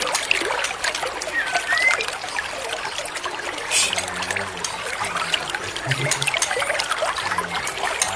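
Steady trickling, running water, the kind of flowing-water track used for bird therapy, with short whistled songbird chirps now and then.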